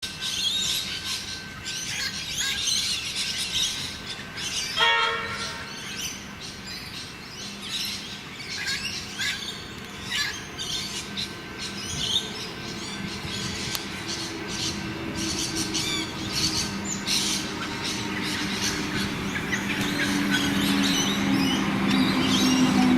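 Birds chirping trackside while an approaching electric suburban train grows steadily louder from about halfway through, its steady hum swelling toward the end.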